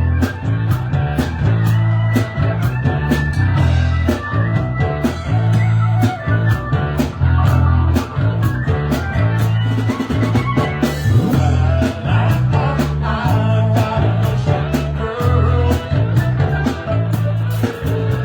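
Live band playing blues-rock with electric guitar, bass and drum kit, keeping a steady beat.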